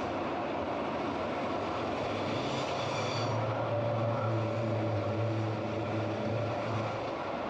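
Glacier Express panoramic train running along the track: a steady rumble of wheels on rails with a low hum that grows stronger about halfway through. A brief high-pitched whine sounds about two to three seconds in.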